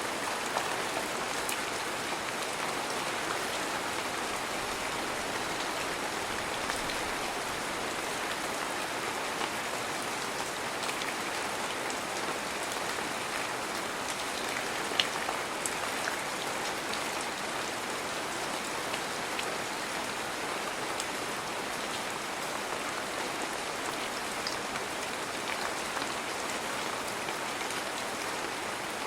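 Steady heavy rain with scattered louder individual drops hitting nearby surfaces, one sharper drop about halfway through.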